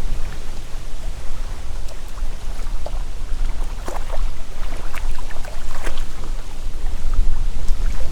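Strong wind buffeting the microphone with a deep, fluttering rumble, over a rustle of wind through autumn leaves with many small scattered crackles.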